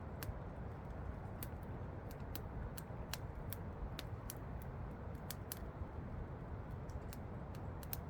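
Campfire crackling with irregular sharp pops, several a second, over the steady rush of a waterfall in the background.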